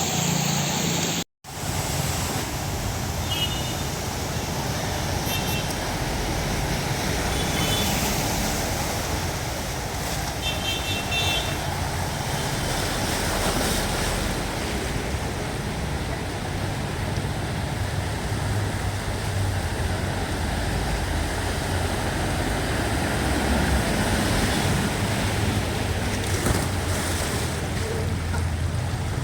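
Steady traffic noise on rain-soaked roads, an even wash of vehicles on a wet street, with a brief dropout about a second in. A few faint, short high tones sound between about three and twelve seconds in.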